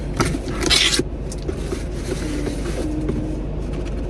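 A mailer package being handled and opened: crinkling and rustling of packaging, with a loud rip of noise about a second in and a few clicks, over a steady low rumble.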